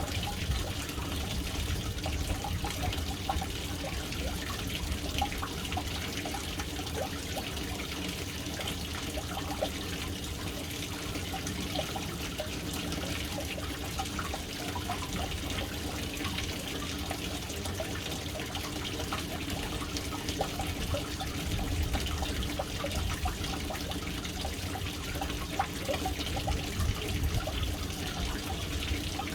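Water falling steadily into a household water tank, splashing and trickling onto the water surface inside it.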